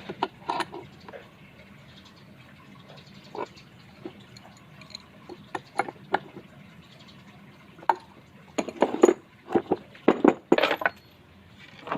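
Irregular clicks, knocks and clinks of hard objects being handled, such as tools, bolts and wooden parts set down and moved on a workbench. They come sparsely at first, then in a louder cluster about two-thirds of the way in.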